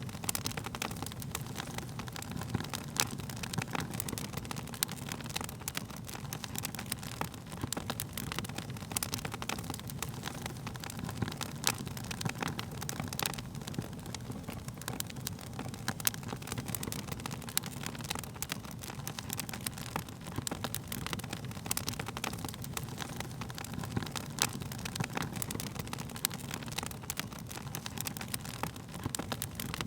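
Wood fire crackling steadily: many small irregular pops and snaps over a low rumble of the flames, with a few louder pops scattered through.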